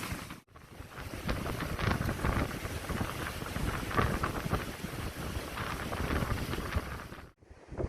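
Strong wind buffeting the microphone in gusts, a rough low rumble over a wide hiss. The sound drops out briefly about half a second in and again near the end.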